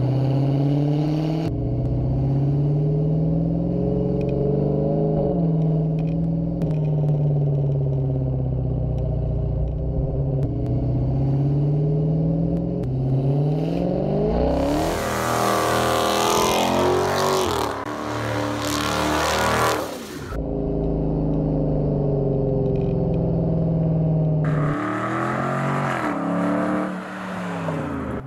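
Dodge Challenger's V8 pulling hard through the gears, its pitch climbing and dropping again at each shift. About halfway through it revs up into a burnout, with loud tyre squeal and hiss over the engine for several seconds.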